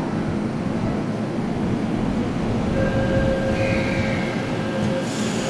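Toyo Rapid Railway 2000 series electric commuter train running on the rails with a steady rumble; about halfway through, a thin steady whine of two tones sets in over the rumble.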